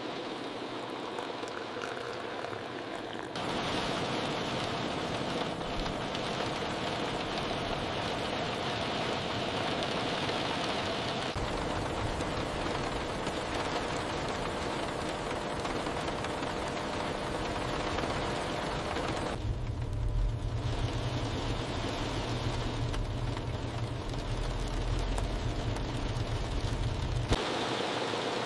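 Heavy rain falling steadily, its texture changing abruptly several times, about every eight seconds. A deep low rumble comes in for several seconds in the second half.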